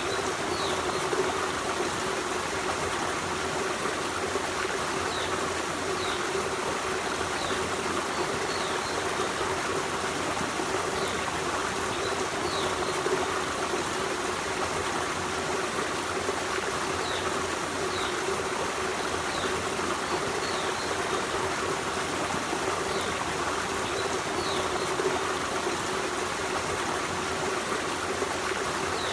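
Forest stream running steadily over rocks, an unbroken rush of water with a trickling edge. Faint short high chirps come every second or two.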